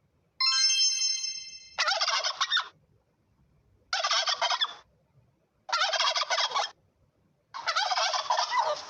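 Domestic turkey gobbling four times, each gobble a rapid warbling burst about a second long with short silences between. The gobbles follow a brief steady ringing tone near the start.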